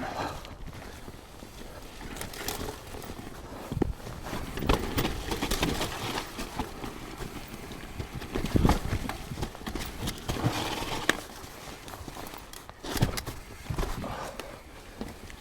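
Mountain bike ridden down a rough, muddy dirt trail: tyres working over mud and roots, with the bike rattling and knocking irregularly over bumps and a few heavier thuds from hard hits.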